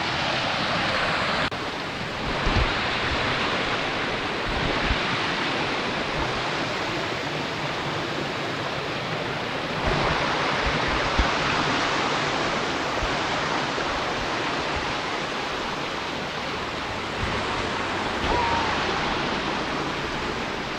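Steady rush of water from waterfalls cascading over rocks. A few low bumps sound now and then, about two, ten and eleven seconds in.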